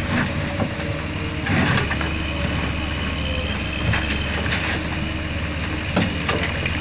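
Excavator's diesel engine running steadily, with a few short knocks and clanks over it.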